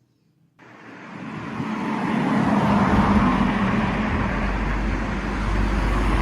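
Steady road-vehicle noise, like traffic or a car running, fading in over about two seconds after a short silence.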